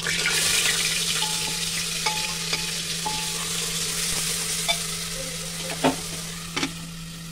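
Onion-garlic paste dropped into hot oil in a pressure cooker, sizzling loudly at first and then slowly dying down as it is stirred with a metal spoon that clinks against the pot a few times near the end.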